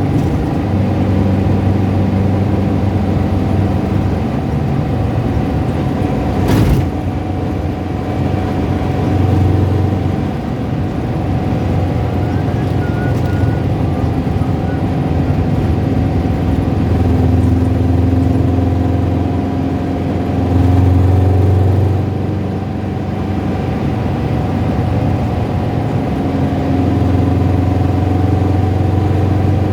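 Car engine running steadily with small rises and falls in revs, carrying the rattling, tapping noise heard at lower revs that the owner calls bad. A single sharp knock comes about seven seconds in.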